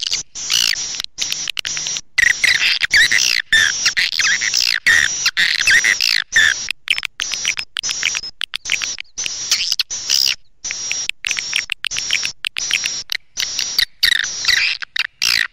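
Swiftlet lure call: a recording of swiftlets twittering in rapid, dense chirps, of the kind swiftlet farmers play to draw the birds into a nesting house. The chirping comes in runs cut by many abrupt short gaps, as in an edited loop.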